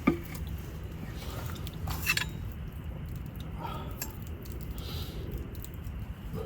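A person chewing food, with a sharp click right at the start and a few small taps.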